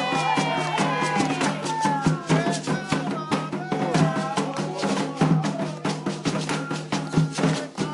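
Candomblé ritual music: fast hand drumming, likely on atabaque drums, with voices singing over it.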